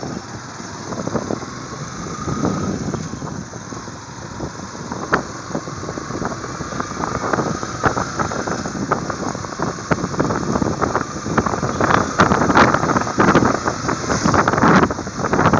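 Wind buffeting the microphone of a moving motorcycle, with road noise underneath. The gusts come irregularly and grow louder in the last few seconds.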